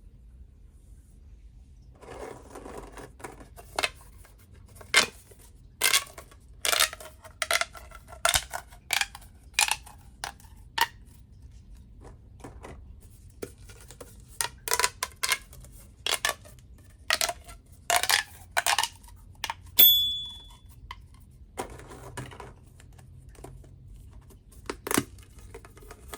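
Plastic pop tubes being stretched and squeezed: irregular clusters of sharp pops and clicks, some leaving a short ringing tone, starting about two seconds in. There is a brief high ring about two-thirds of the way through.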